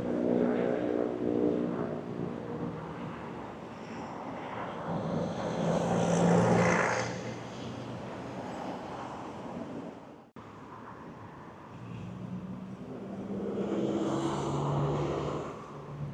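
Road traffic passing by: motor vehicles drive past one after another, with one pass loudest about six seconds in and another around fourteen to fifteen seconds in. The sound drops out for an instant about ten seconds in.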